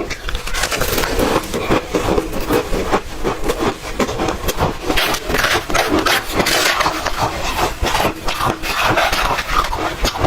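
Ice being chewed close to the microphone: dense, continuous crunching and crackling with no pause.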